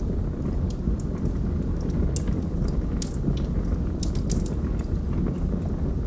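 Wood logs burning in a fireplace: a steady low rumble of the flames with scattered sharp crackles and pops, clustered around the middle.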